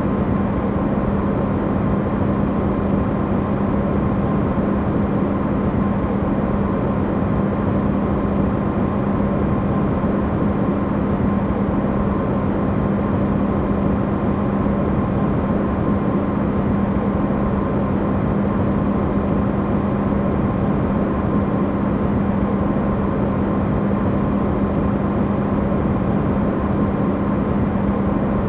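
Electrolux refrigerator running, recorded amplified: a steady, unchanging hum with a strong low tone over a dense wash of noise, used as white noise.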